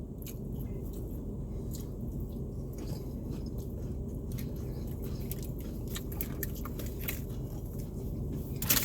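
A person chewing a fried chicken tender dipped in honey mustard, with soft, irregular clicks and crunches, over a steady low hum.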